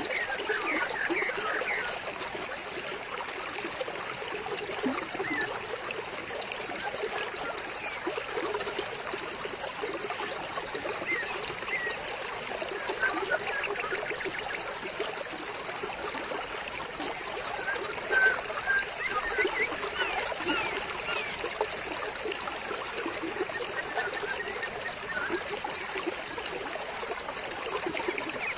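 Shallow stream of water trickling and gurgling steadily, with short bird chirps now and then, most clustered about two-thirds of the way through.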